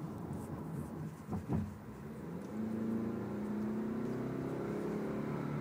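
A 2012 Toyota Camry's four-cylinder engine pulling away, its pitch rising steadily from about halfway through as the car accelerates. A couple of short knocks come just before.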